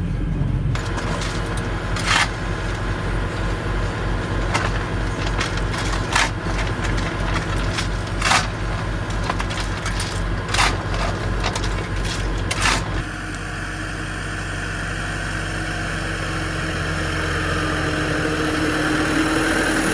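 Tractor engine running, with repeated sharp knocks and rattles over it for most of the first part. About two-thirds of the way through the sound changes abruptly to a smoother engine note that rises slowly.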